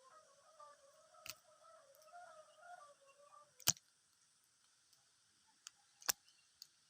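Eagle tearing at a large catfish: faint, with a few sharp isolated clicks and snaps, the loudest about a second in, just past the middle and near the end. A faint wavering tone runs under the first half.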